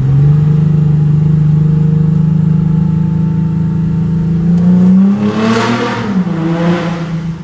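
Audi A5 3.0 quattro engine through a straight-piped exhaust, running loud at a steady engine speed for about five seconds, then swelling briefly with a rise and fall in pitch before settling to a lower steady note.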